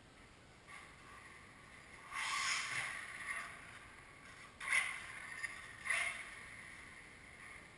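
Losi Mini 8ight RC buggy's electric motor and drivetrain whirring in three short bursts of throttle, the first about two seconds in and the longest, then two brief ones near five and six seconds, over a faint steady whine.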